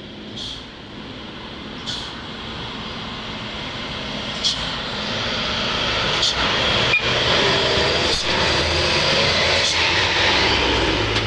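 Dump truck's diesel engine working hard on a steep climb, growing steadily louder as it approaches and then staying loud, with a few short knocks and rattles from the body.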